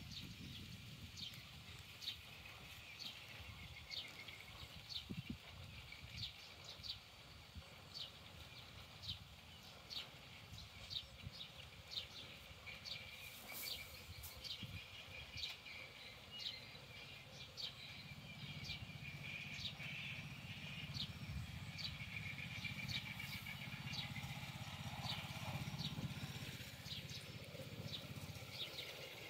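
Quiet outdoor ambience in which a small bird repeats a short high chirp about every three-quarters of a second. A low rumble grows louder in the second half.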